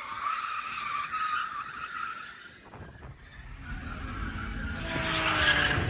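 Car tyres squealing, fading out over the first second or two; after a brief lull, a car engine's low rumble builds toward the end.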